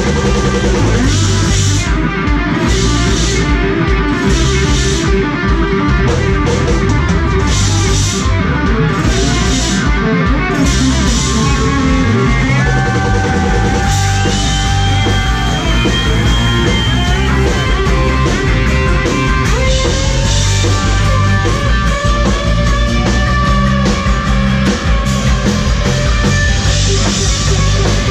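Rock music: a lead electric guitar playing over a drum kit and a full band, with some long bending notes held about halfway through.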